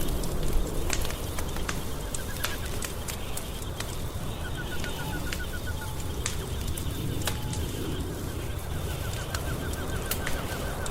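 Wood fire crackling in a fireplace, with sharp pops scattered over a low steady rumble. A quick, rapidly pulsed chirping trill comes in three times, the last and longest near the end.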